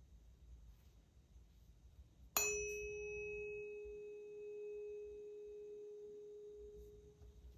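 An unweighted solfeggio tuning fork struck once, about two seconds in. It rings with a clear, steady tone just above 400 Hz and bright high overtones, then fades away over about five seconds.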